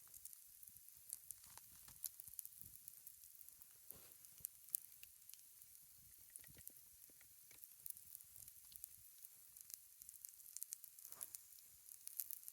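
Quiet sizzling and crackling from cooking over a campfire: irregular sharp pops and ticks over a faint high hiss.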